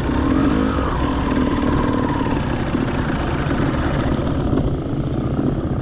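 Enduro dirt bike engine running steadily at low revs.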